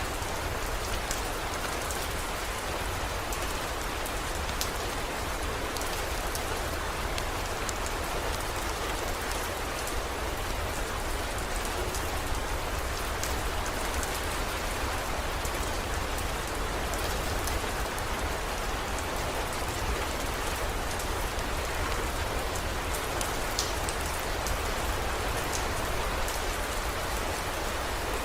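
Heavy rain falling steadily, with scattered sharp drop ticks and a steady low rumble underneath.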